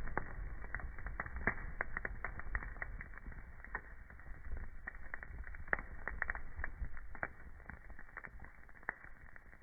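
Wood fire crackling, with irregular sharp snaps and pops of burning logs over a low rumble of flame. The pops grow sparser and the fire quieter near the end.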